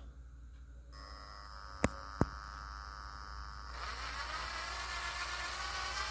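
Makita 12V max CXT cordless tool's motor spinning up under the trigger about two-thirds in and running steadily with a light whir, after two sharp clicks. It runs quietly.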